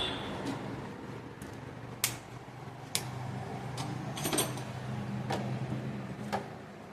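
Sharp clicks and knocks, roughly one a second, over a low steady hum that fades out near the end.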